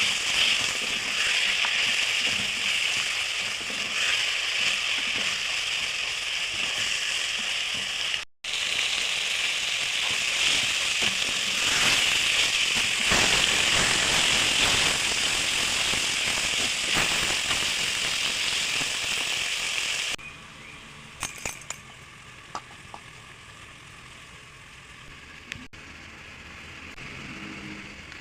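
Food frying in hot oil in a pan: a dense sizzle with crackling. About twenty seconds in it drops to a much quieter, gentler sizzle with a few sharp clicks.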